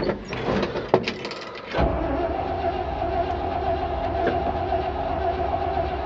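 A few clicks and knocks, then about two seconds in the starter motor begins steadily cranking the truck's 327 V8, which does not catch.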